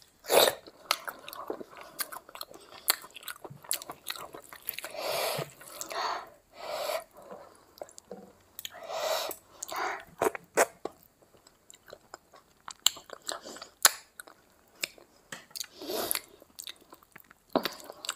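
Close-miked chewing and wet lip smacking from a person eating big mouthfuls of rice and curry by hand, with many sharp mouth clicks and short swells of noise between them.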